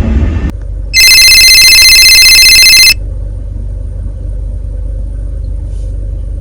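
A phone ringing loudly for about two seconds with a steady electronic ring tone, then a low steady hum.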